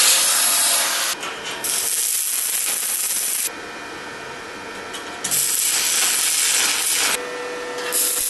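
Harsh, hissing workshop noise of steel being worked. It comes in loud stretches of about one to two seconds that start and stop abruptly, with quieter stretches between them.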